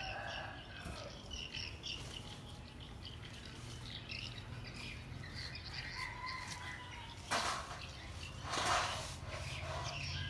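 Small birds chirping and calling in short notes, with a brief held whistle about six seconds in. Two short noisy bursts, about seven and nine seconds in, are the loudest moments.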